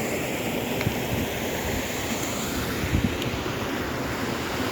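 Water of a small waterfall rushing over rocks: a steady, even rushing noise, with a couple of brief low knocks about one and three seconds in.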